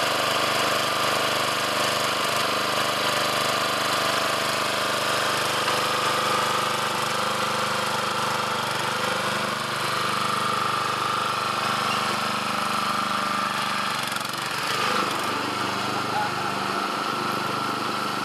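Small gasoline engine running at a steady speed, throttle worked by a hand trigger, with a brief drop in level about 14 seconds in.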